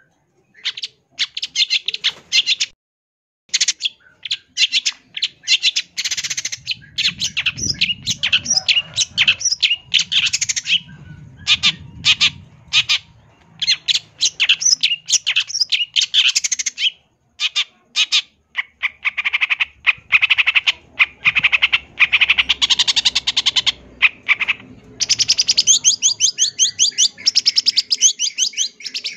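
Long-tailed shrike (cendet) singing a fast, varied chattering song full of harsh notes and trills, the kind of mimicry-rich 'isian' song prized in a champion bird.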